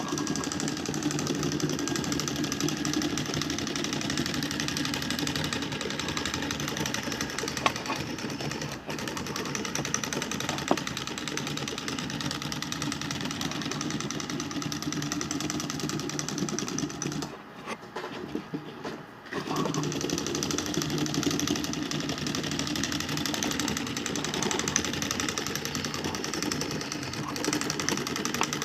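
LEGO 9V electric motor running steadily, its plastic gears whirring and rattling like a small sewing machine. It drops much quieter for about two seconds a little past halfway, then picks up again.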